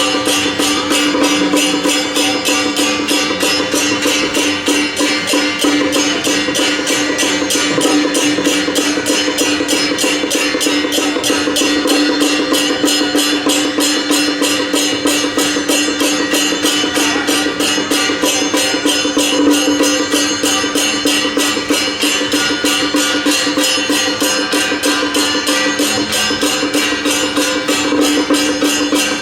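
Traditional temple procession music: a fast, even percussion beat with a held pitched tone sounding over it, playing steadily and loudly.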